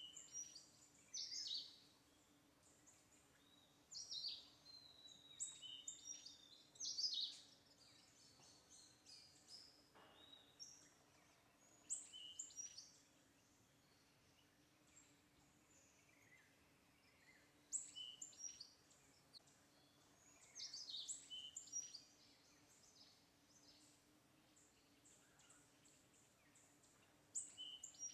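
Faint chirping of small birds: clusters of short, high calls that slide downward, coming every few seconds, over a faint steady low hum.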